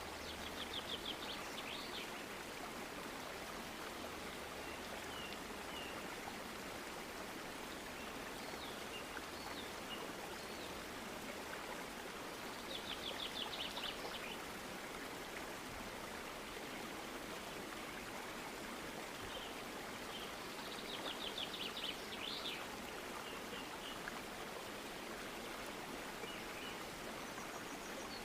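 Steady rush of running water with a small bird singing a quick high trill of rapidly repeated notes every several seconds, three times in all, with a few short chirps between.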